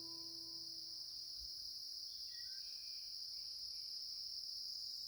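Steady, high-pitched chirring of an insect chorus, with the last acoustic guitar chord ringing out and fading away over the first two seconds. A few faint short chirps come in around the middle.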